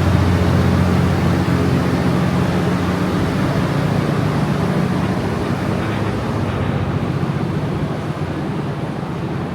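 City street traffic: a steady low engine hum from a nearby vehicle under a wash of street noise, easing slightly toward the end.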